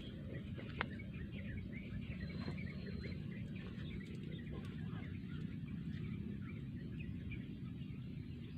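Many short bird calls chirping over a steady low rumble.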